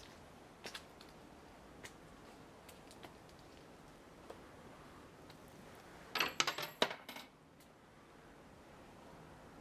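Coins tossed into a shrine offertory box: a quick cluster of clinks and metallic rattling about six seconds in, lasting about a second, with a few faint clicks before it.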